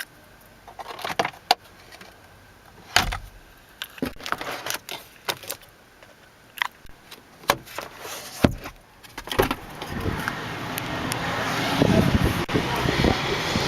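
Manual car seat being adjusted: a series of sharp clicks and clunks from the seat's levers and track latches, then a denser rustling and sliding noise building over the last few seconds.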